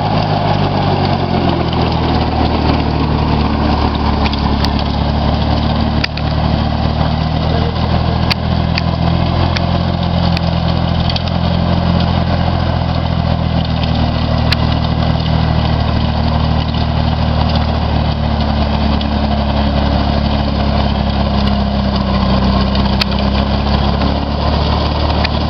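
Orchard tractor engine running steadily, its pitch shifting slightly now and then, with a few sharp clicks.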